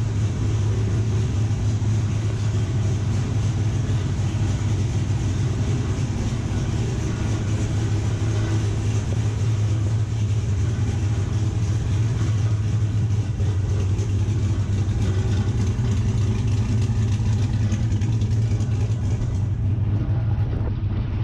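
V8 truck engine fitted with a TSP Stage 4 camshaft and a DOD delete, idling steadily.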